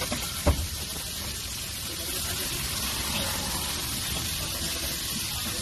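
Chopped onion and tomato sizzling in oil on a large flat iron griddle, a steady hiss, with one sharp knock about half a second in.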